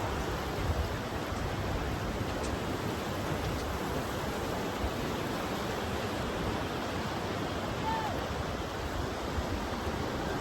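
Steady rushing noise of surf breaking on a beach, with wind.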